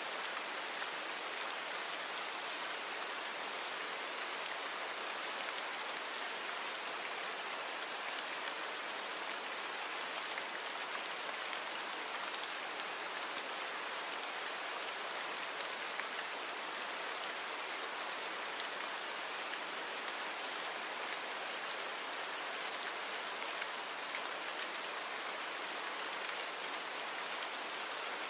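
Steady rain falling, an even hiss of many small drops with little low rumble and no change in strength.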